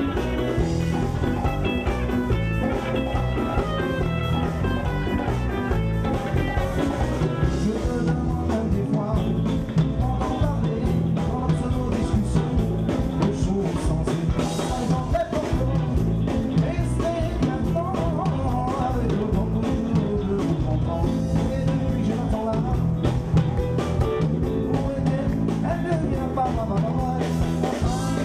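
Live band music with singing over guitar and a steady drum beat.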